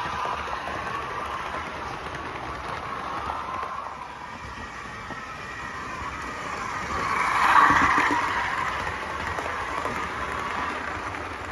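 Model train running along the layout's track, a steady rumble of wheels and motor that grows louder as it passes close about two-thirds of the way through, then fades.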